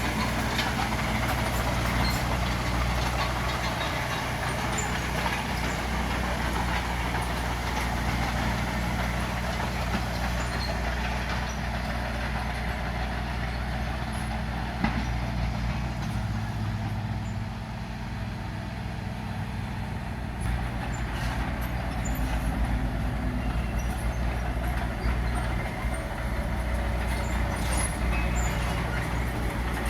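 Diesel engine of heavy earthmoving machinery running steadily, with scattered light clanks and rattles; it eases off briefly a little past the middle.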